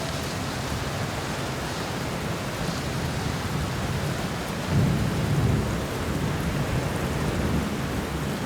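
Steady rain falling, with a low rumble of thunder swelling up about five seconds in.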